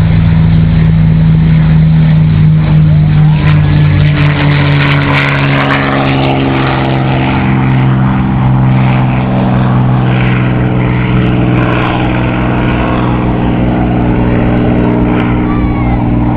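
P-51 Mustang's Packard Merlin V-12 engine and propeller running loud and steady, a deep even drone with a rough crackle over it.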